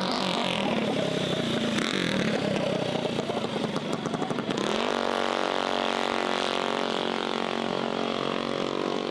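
Mini bike engines running, with uneven revving for the first few seconds. About five seconds in, one engine settles into a steady idle.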